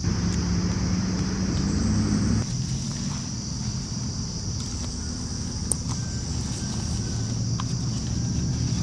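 Tropical forest insects, crickets and similar, buzzing in a steady high chorus over a continuous low rumble with a faint hum, which eases slightly about two and a half seconds in. A few faint clicks near the middle.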